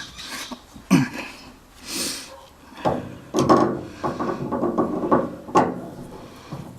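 Irregular knocks and clanks of metal parts and hand tools being handled while reassembling a water heater's gas burner and pilot assembly, about seven separate strikes with a short hiss-like scrape about two seconds in.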